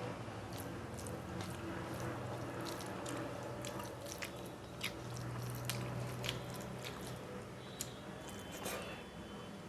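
A person chewing food close to the microphone: wet, squishy mouth sounds with scattered sharp lip-smack clicks, over a steady low hum.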